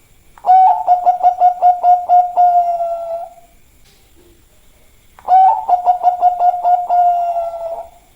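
Bangkok-type zebra dove (perkutut) singing two song phrases about five seconds apart. Each is a quick run of clipped coo notes running into a long held coo that falls slightly at its end.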